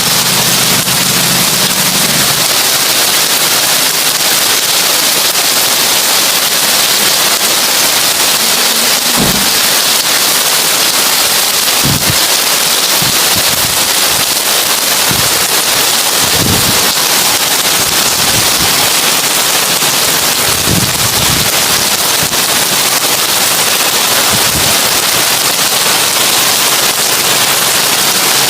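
Heavy rain on a tin roof: a loud, steady, dense patter with a few dull low thumps scattered through it.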